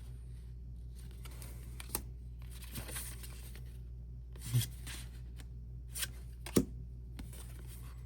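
Hands handling small paper and plastic merchandise: a few scattered taps, clicks and rustles, the sharpest about two thirds of the way in, over a low steady hum.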